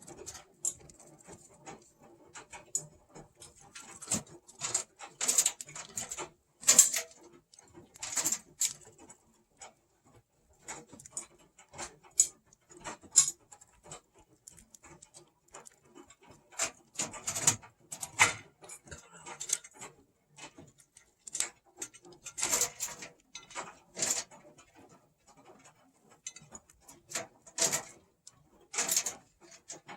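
Budgies nibbling at a piece of carrot held in a hand: irregular small crunches and beak clicks, coming in clusters.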